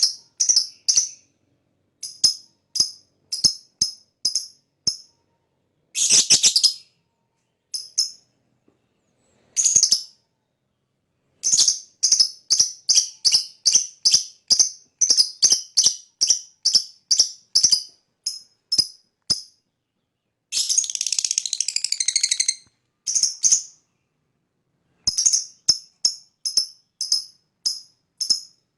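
Lovebird chirping: runs of short, sharp, high-pitched chirps, several a second, broken by pauses. A longer continuous chattering trill comes about six seconds in and another around twenty-one seconds. This is the long 'ngekek' song used as a lure to get other lovebirds singing.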